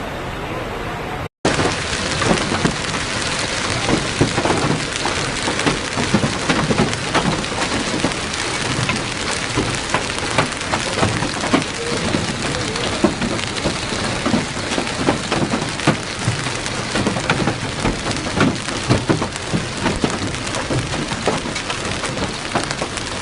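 Hailstones pelting down in a heavy storm: a dense, continuous clatter of many sharp impacts. The storm starts abruptly at a cut about a second in.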